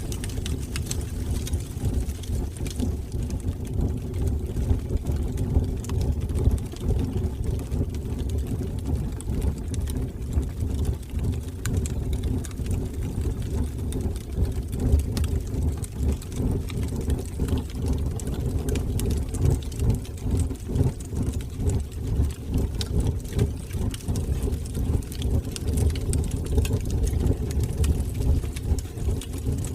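Wood fire burning in a fireplace: a steady low flicker of flames with scattered small crackles.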